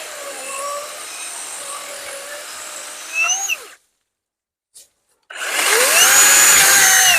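WORX WG385E 16-inch cordless electric chainsaw running with a steady motor whine, then cutting out. About five seconds in, it spins up again and cuts into a log, louder, its pitch sagging under load.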